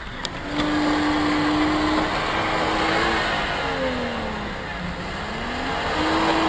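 Car engine running with a steady hum. About halfway through its pitch drops and then climbs again, as the revs fall and pick back up.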